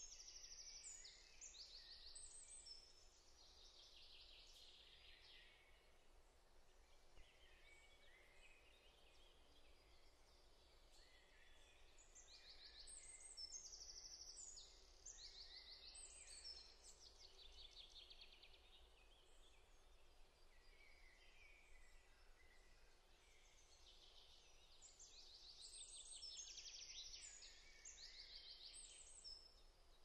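Faint woodland birdsong: small birds singing quick trills and runs of high chirps, the song coming in bursts near the start, in the middle and near the end, over a low steady background hum.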